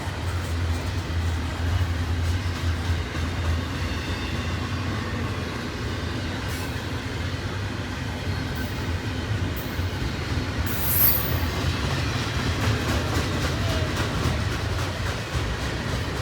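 Intermodal double-stack freight train rolling past: a steady rumble of wheels on rail, with faint wheel squeal and a brief high squeal about eleven seconds in.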